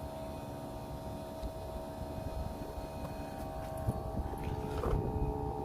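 LG Dual Inverter split air conditioner running under load: the inverter compressor and condenser fan hum with a steady whine of several tones. A further tone joins about four and a half seconds in.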